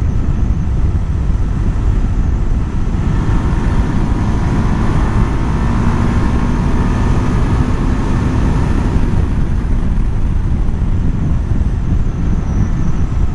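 Wind rushing over the microphone of a moving Husqvarna Svartpilen 401, its single-cylinder engine running at cruising speed underneath. A higher whine swells a few seconds in and fades again near the middle.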